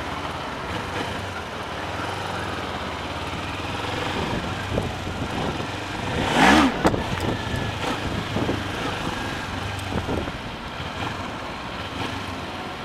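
Kawasaki Ninja 400's parallel-twin engine running at low speed on a slow test ride, heard from on the bike. A short, loud burst with a wavering pitch comes about six and a half seconds in.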